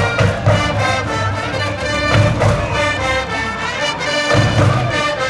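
Brass band playing a baseball cheering song in the stands, horns over a regular drum beat.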